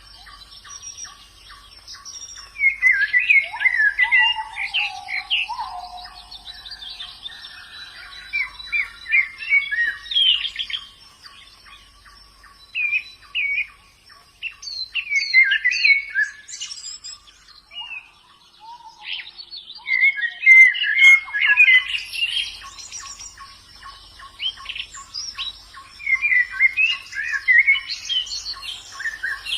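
Wild white-eyes (pleci) singing: repeated bursts of quick, high twittering chirps, loudest around the middle and near the end, over a fast, even ticking series of notes.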